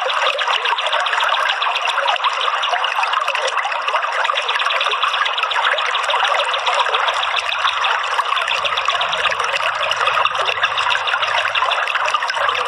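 Steady running water, a dense trickling rush, as used for bird-therapy sound tracks. A faint low hum comes in about two-thirds of the way through.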